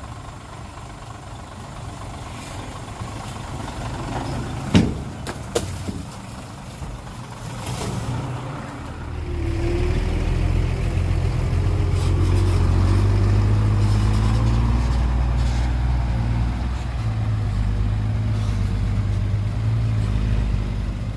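Heavy diesel engine running, with two sharp short bangs about five seconds in; from about nine seconds on the low engine rumble grows much louder and stays loud, as under heavy load.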